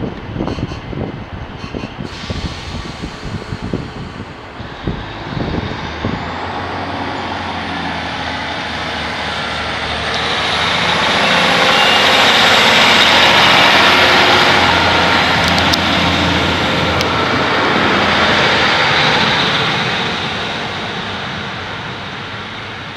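Northern Class 150 diesel multiple unit pulling out of the station, its engine note rising as it accelerates. It builds over the first several seconds, is loudest as it runs past, then fades as it moves away.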